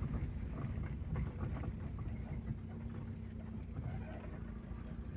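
A vehicle driving along a rural dirt road: a steady low engine hum with many small irregular rattles and knocks.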